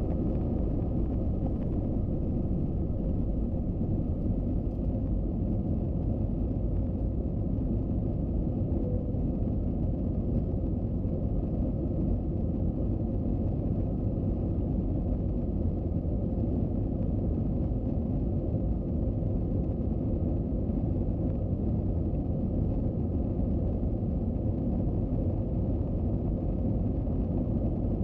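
Steady low rumble of an Airbus A321-200 airliner, heard from inside the passenger cabin, with a faint steady hum over it and no change in level.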